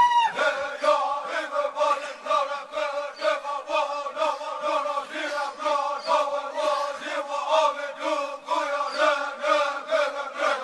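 Rhythmic chanting on a dance soundtrack, the voices repeating a short pulsing phrase over a steady beat.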